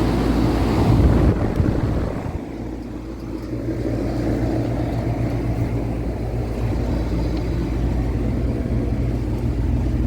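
Goodman 5-ton package air conditioner running: a steady electric hum from its compressor, thought to be a Copeland scroll, under the rushing noise of the condenser fan.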